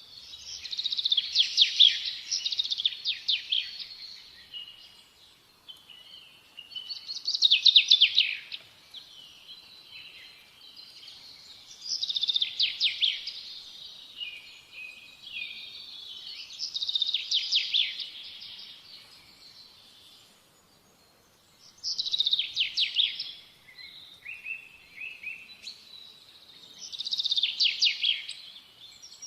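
A songbird singing: six bursts of rapid trilled notes, one every four to five seconds, with softer twittering between the bursts.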